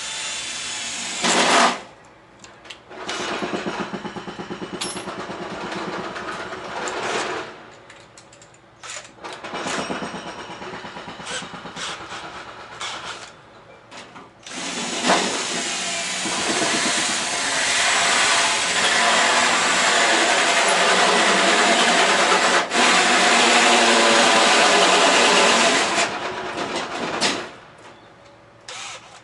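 Electric drill boring holes in a metal mounting plate, running in four stretches with short pauses, the last and loudest about twelve seconds long. The bit is blunt and cutting slowly.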